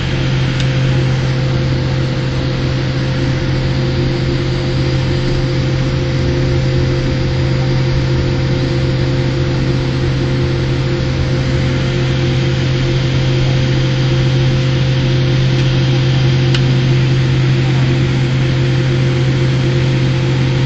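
Steady hum inside the cabin of a Boeing 787 Dreamliner before takeoff: engine and air-system drone with a low steady tone, its level nearly even.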